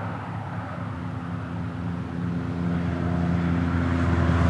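Interstate traffic running alongside the water. A vehicle's engine hum grows steadily louder toward the end as it approaches.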